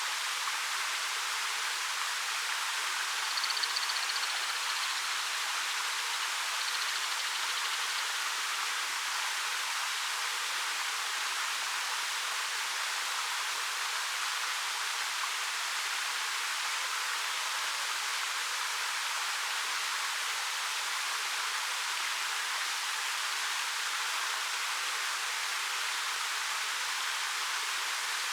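Waterfall of about 13 m falling over rock, a steady even rush of water. A brief faint high chirp rises above it a few seconds in.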